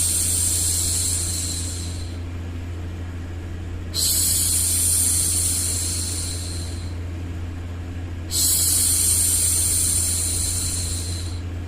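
A woman's voice making long, soft 'shhh' hushing sounds. Each lasts about three seconds and they repeat about every four seconds, the first already under way and fading out about two seconds in. Beneath them runs a steady low hum of white noise.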